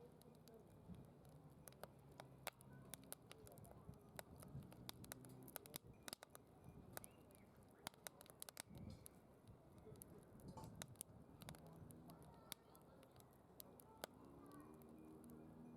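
Wood fire crackling faintly in a secondary-combustion fire pit: scattered sharp pops and snaps throughout, with faint voices of nearby campers under it.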